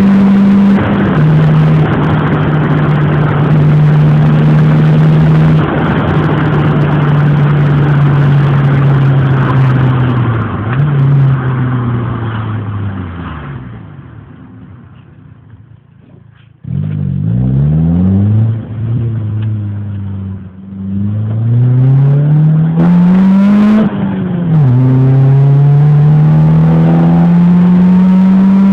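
Renault Clio engine through an aftermarket exhaust: it holds a steady drone, then sinks in pitch and fades away, and after an abrupt cut it accelerates hard through the gears, the note rising in several sweeps with drops at each gear change.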